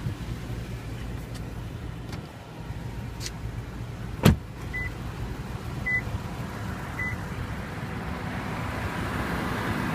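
Lexus LX 570's 5.7-litre V8 idling steadily. About four seconds in there is one loud, sharp knock, followed by three short high beeps about a second apart.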